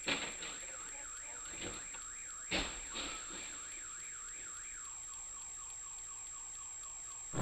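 A car alarm, faint, wails with a fast up-and-down sweep of about three cycles a second and fades out after about five seconds. A short knock sounds about two and a half seconds in.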